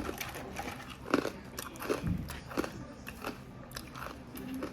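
Crunchy bagel chips with strawberry cream cheese being bitten and chewed: a run of irregular, sharp crunches.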